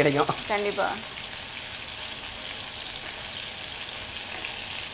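Chicken breast pieces frying in hot oil in a frying pan: a steady sizzle with faint scattered crackles, the chicken browning in its own oil after its water has cooked off.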